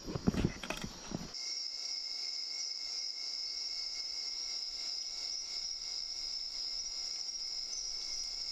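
A few sharp knocks and clicks of gear being handled, then from about a second in a steady chorus of night insects such as crickets, a high, even trill that does not let up.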